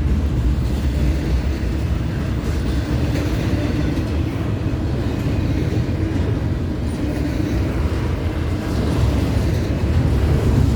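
CSX intermodal freight train rolling past: a steady low rumble of steel wheels on the rails.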